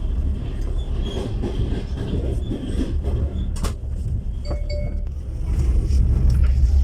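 Running noise inside a moving passenger train carriage: a steady low rumble of the wheels on the track. A sharp click about three and a half seconds in, and the rumble grows louder about five and a half seconds in.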